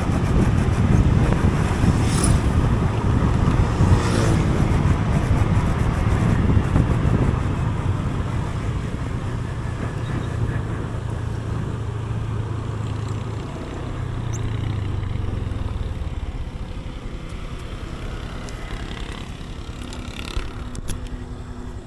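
Engine and road noise of a vehicle under way on a ride, with wind rush. There are two short whooshes about 2 and 4 seconds in, and the sound eases off somewhat in the second half.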